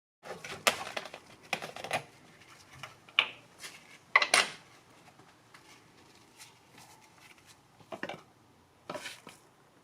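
Irregular clicks and clatters of hard objects being handled, in short clusters, the loudest about four seconds in, with two quieter knocks near the end.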